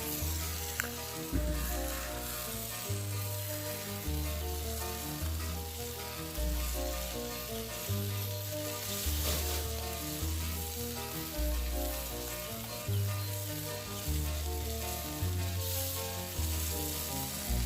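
Menemen sizzling in a frying pan, a steady hiss throughout, over background music with a repeating keyboard melody and a stepping bass line.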